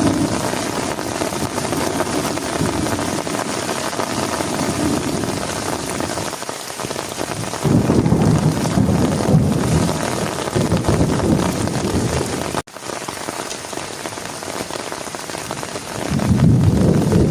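Heavy rain falling steadily, with low rolling thunder swelling up twice: once from about halfway to two-thirds in, and again near the end. A sudden break cuts the sound briefly about two-thirds of the way through.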